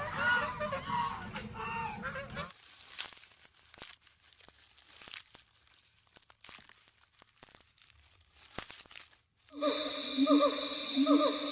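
Poultry honking calls for the first two and a half seconds, then soft crunching and clicking, then about nine and a half seconds in a different loud, continuous pitched sound begins with quick repeated falling notes.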